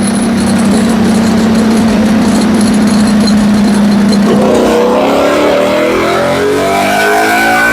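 2023 Ducati Panigale V4 SP2's V4 engine through a full titanium Akrapovič exhaust, loaded on a dyno. It runs at steady revs, then about four seconds in the revs start climbing steadily in a rising pull.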